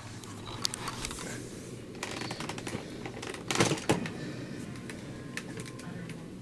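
Plastic clicks and knocks from handling a Fantom Crosswind bagless upright vacuum, switched off, as its dust container is opened up, with a louder double knock about three and a half seconds in.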